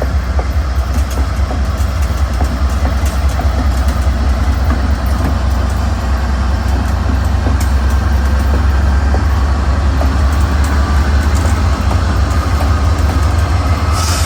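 Freight train rolling by with a steady, loud rumble of wheels on rail, with scattered clicks and faint high squeals.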